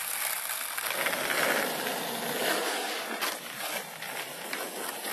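Skateboard wheels rolling over a concrete driveway, a steady rough rattle with a few light clicks in the second half.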